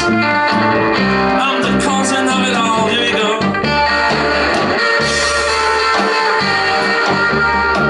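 Live rock and roll band playing an instrumental passage: electric guitar lines over a repeating bass line and drums.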